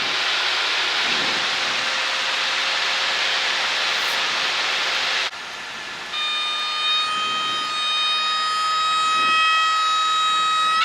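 Cessna 152 cabin noise of engine and airflow, which drops sharply about halfway through. Then the stall warning horn sounds as a steady high-pitched wail, jumping up in pitch near the end: the wing is at or near the stall, as in a spin entry.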